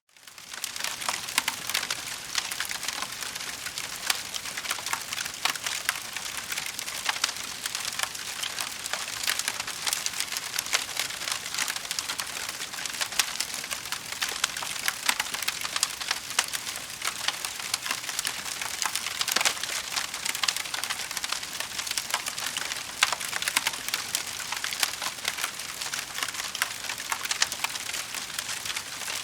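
Wood fire in a fireplace crackling, a dense run of small pops and snaps over a soft hiss. It fades in at the start, then holds steady.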